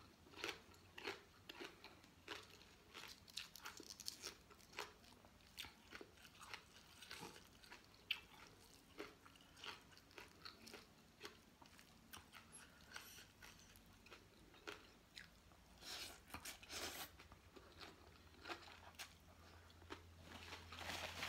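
Close-up eating sounds: irregular crisp crunches and chewing of raw green bean pods and fresh vegetables, with a denser, louder run of crunches about sixteen seconds in.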